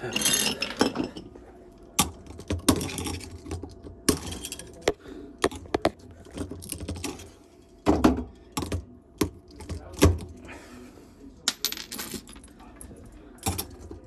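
Irregular clicks and knocks, with a few short scraping rustles, from hands handling fittings, drain hose and wiring inside a bar refrigerator's compartment.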